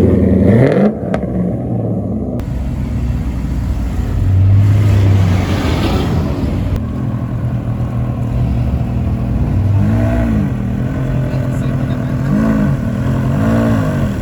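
Car engines running nearby, with the pitch rising and falling in short revs several times near the end and a louder swell of engine noise about four to five seconds in.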